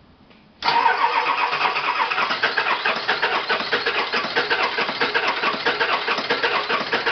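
A 1995 Ford Power Stroke 7.3-litre V8 turbo diesel being cranked over by its starter on a cold start with ether, a fast, even chugging that begins about half a second in and goes on without the engine catching.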